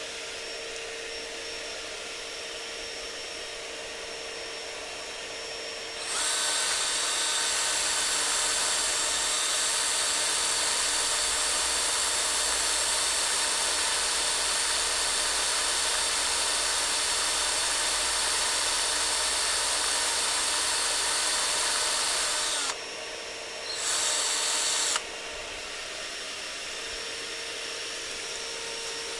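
A vacuum runs steadily throughout. About six seconds in, a power drill fitted with a grinding head starts up much louder, grinding down a steel rivet head to remove it. It runs steadily for about seventeen seconds, stops, then runs once more for about a second.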